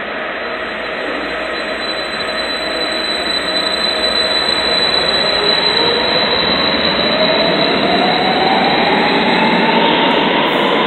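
Metro train running past the platform with a loud rumble that grows steadily louder, and a whine that rises in pitch over the second half as the train accelerates.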